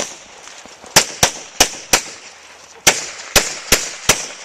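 Handgun shots fired in quick pairs and short strings, about eight shots with a short pause partway through, the rhythm of a shooter engaging targets on a USPSA stage.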